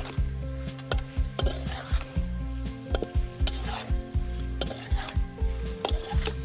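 Metal spatula and slotted ladle scraping and knocking against a steel wok, about two strokes a second, as frog pieces and leafy greens are stir-fried with a frying sizzle.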